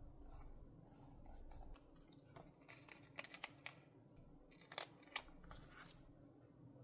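Scissors snipping paper in two short runs of quick, sharp cuts, over faint room tone.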